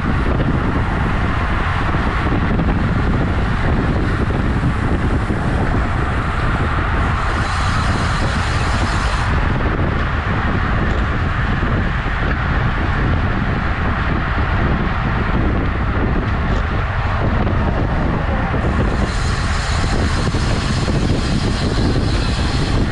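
Steady rush of wind buffeting the microphone of a camera carried on a moving road bike, mixed with road and traffic noise. Twice a brighter hiss comes in for a few seconds, about a third of the way in and again near the end.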